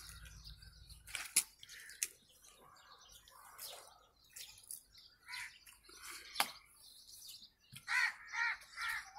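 A bird gives about four short calls in quick succession near the end, over scattered faint knocks and taps.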